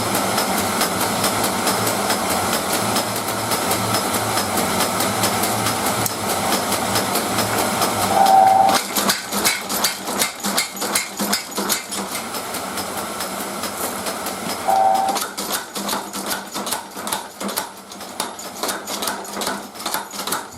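Rapid, rhythmic hammer blows on wrought iron being forged for a knife's base metal, several strikes a second, with two brief ringing tones along the way.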